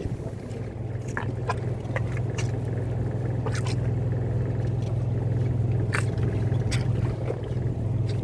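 A fishing boat's engine running steadily, a low even drone, with scattered light clicks and knocks over it.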